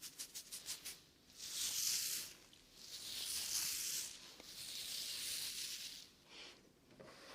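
Close-microphone ASMR trigger sounds: quick soft rubbing strokes, about eight a second, in the first second, then three long hissing swooshes of about a second and a half each.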